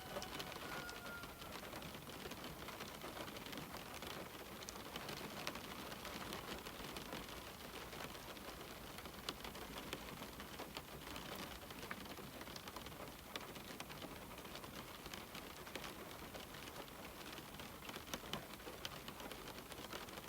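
Rain falling steadily on a window: an even hiss dotted with many small drop taps.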